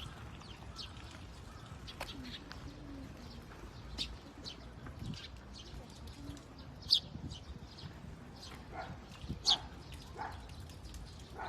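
Birds chirping in short, sharp calls scattered throughout, a few of them louder, with low pigeon cooing now and then.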